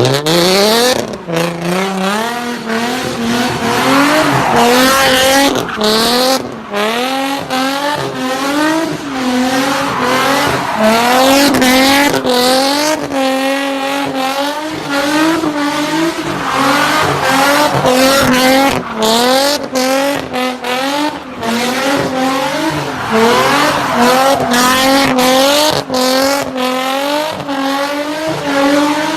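Race car engine at high revs, its pitch climbing and dropping again and again as the throttle is worked and gears change, with brief sharp cuts in the sound.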